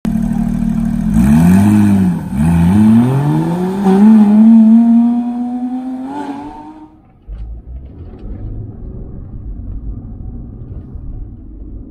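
Sports car engine blipped twice, then accelerating with a steadily climbing pitch and fading away about seven seconds in. A quieter low rumble follows.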